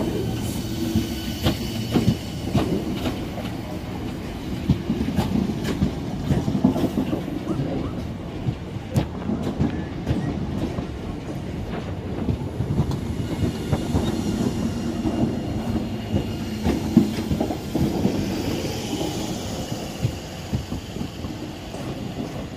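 Passenger train running slowly past along the platform, its wheels clicking over the rail joints again and again over a steady rumble, fading as it draws away near the end.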